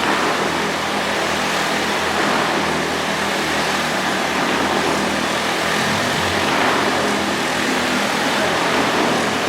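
Motorcycle engine running at steady high revs as the bike circles the Wall of Death drum, a loud continuous drone.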